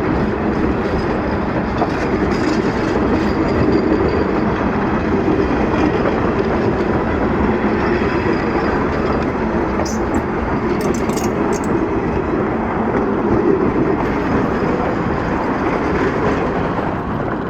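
Train running on the rails: a loud, steady rumble of the wheels and wagons, easing slightly near the end.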